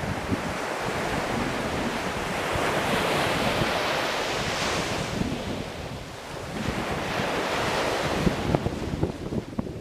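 Sea waves breaking and washing on the shore, the surf swelling twice and easing between.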